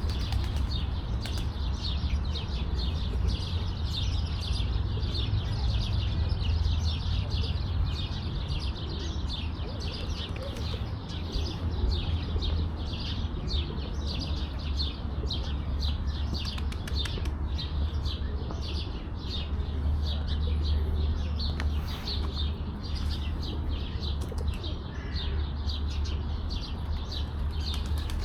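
Many small birds chirping in a dense, continuous chorus of short high chirps, over a steady low rumble.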